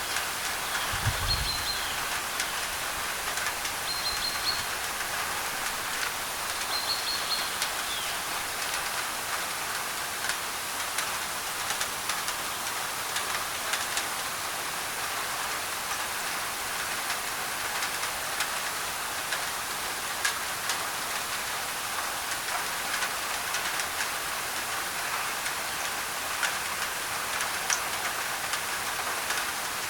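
Steady rain on a thin tin roof, with scattered drops ticking sharply, over an even white-noise hiss. A bird chirps a few short notes in the first several seconds.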